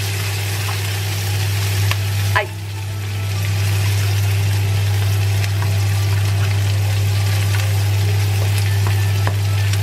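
Sliced chorizo and shallots sizzling steadily in oil in a nonstick frying pan, stirred with a plastic slotted spatula, over a steady low hum. A sharp knock comes about two and a half seconds in, after which the sizzle dips briefly and builds back up.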